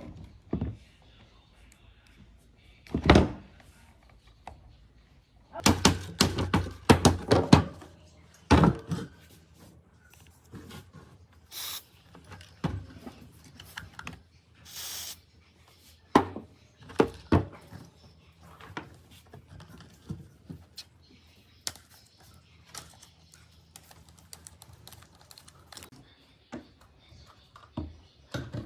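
Knocks and clicks of tools and metal parts of an old table fan being handled, with a quick run of knocks about six seconds in and two short hisses later on.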